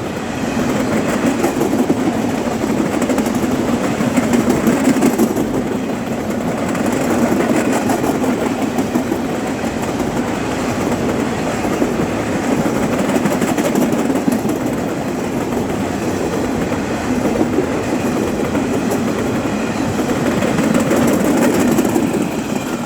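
Freight train's intermodal and steel-coil cradle wagons rolling past close by, a steady noise of steel wheels on the rails that drops away just before the end.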